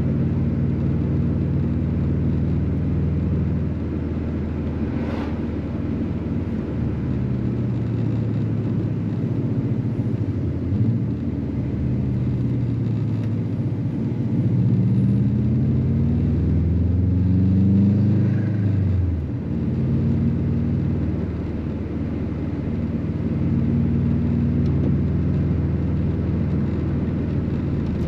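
Subaru WRX's turbocharged flat-four engine running under way, with road noise. Its pitch climbs for several seconds as the car accelerates, then drops abruptly at a gear change about two-thirds of the way through, before settling steady again. There is a brief click about five seconds in.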